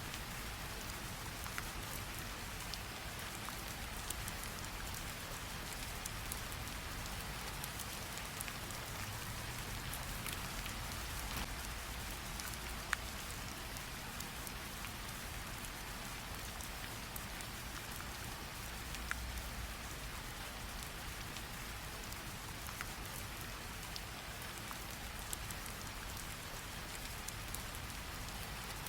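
Recorded rain sound effect: a steady hiss of rainfall with scattered drop ticks, one sharper tick about 13 seconds in.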